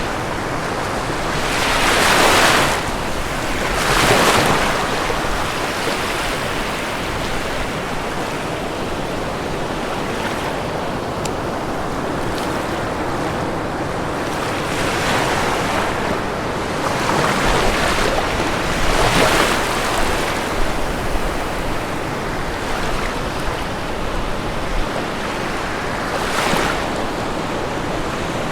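Ocean waves breaking on a shore under a steady wash of surf, with louder breakers at about 2 and 4 seconds in, several more in the middle stretch, and one near the end.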